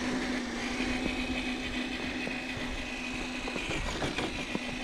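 Electric RC crawler truck's motor and gearbox whining steadily as it drives slowly in low gear, with scattered small clicks. The whine cuts out about three and a half seconds in and picks up again a second later.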